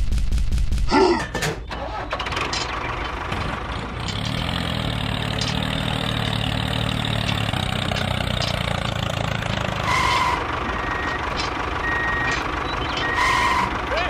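Rapid, evenly spaced hammering that stops about a second in, then a small machine's motor running steadily. Two short beeps come later.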